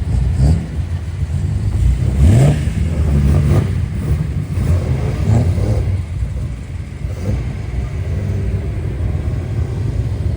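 Exhaust of a classic Japanese car, the engine rumbling at idle between several quick throttle blips; the sharpest rev comes about two seconds in.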